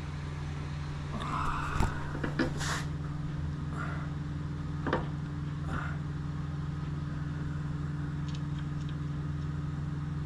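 A steady low machine hum, with a few sharp metal clinks and taps in the first six seconds, the loudest about two seconds in, as the outboard's lower unit is worked up into place on its mounting bolts.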